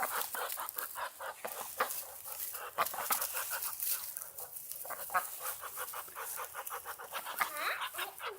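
Birds calling in a rapid string of short notes, several a second, with a few longer gliding calls near the end.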